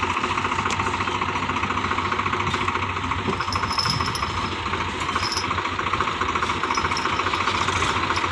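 Tractor diesel engine running steadily with a fast, even knocking beat.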